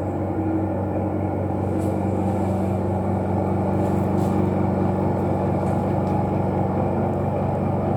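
Washroom ventilation fan running with a steady, loud droning rumble: an abnormal noise that suggests something is wrong with the fan.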